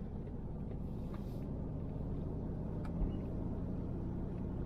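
A car driving, with a steady low rumble of road and engine noise and one light bump about three seconds in.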